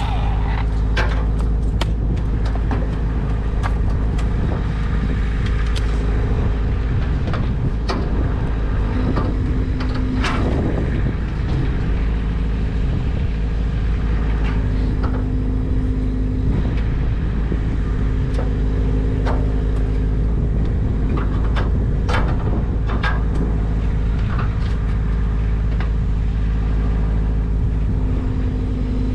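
An engine running steadily with a deep rumble, its tone swelling slightly now and then, with scattered clicks and knocks over it.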